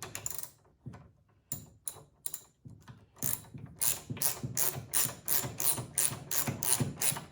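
Ratchet wrench clicking as the carburetor mounting bolts on a snowblower engine are snugged up: a few scattered clicks at first, then a steady run of about three clicks a second.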